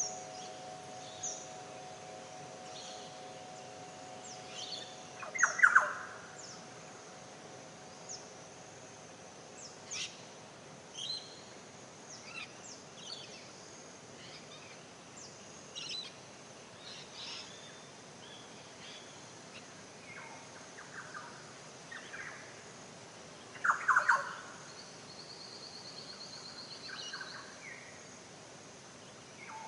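Wild birds chirping and calling, with many short high chirps throughout and two louder, lower calls about six seconds in and near the end. A steady ringing tone fades out in the first few seconds, and a brief buzzy trill sounds shortly before the end.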